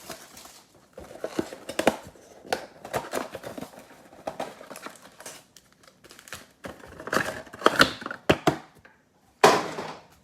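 Plastic shrink wrap being torn off a trading-card mega box, crinkling and ripping in irregular bursts, with the loudest tear near the end.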